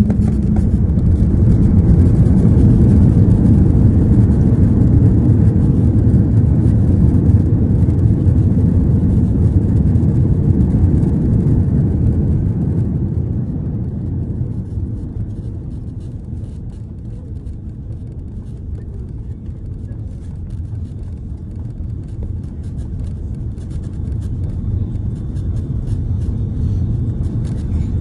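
Low rumble inside the cabin of an Airbus A330 as it lands. The rumble is loud for the first half, dies down over a few seconds about halfway through, and builds slightly again near the end.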